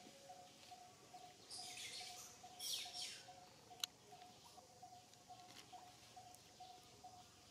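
Faint outdoor ambience: a bird repeating one short note a little over twice a second. Brief rustling about one and a half to three seconds in, and a single sharp click near the middle.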